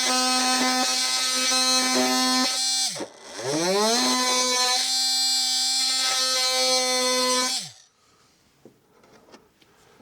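Electric multi-tool running with a steady buzz while trimming away excess material. About 3 s in it winds down and is restarted, then it is switched off and winds down near 8 s, leaving only faint handling clicks.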